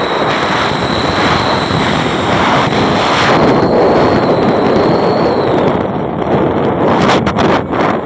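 Toyota Avanza with an aftermarket racing exhaust running loud and rough, with a steady high whistle that fades out about five seconds in and a few sharp cracks near the end.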